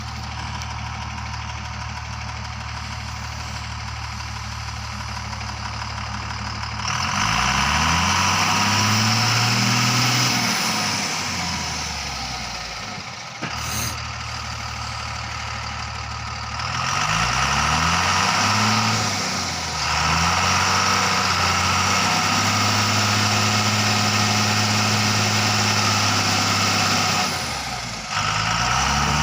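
Truck engine idling, then revved up, easing back, and revved up again and held at higher revs for several seconds before dropping back to idle near the end, as the truck unloads.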